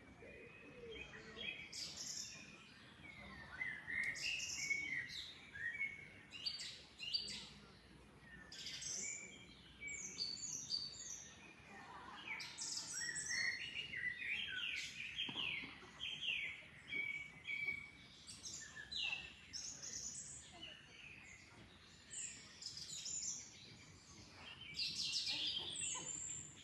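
Several songbirds chirping and singing in quick, overlapping calls, over a faint, even background hiss.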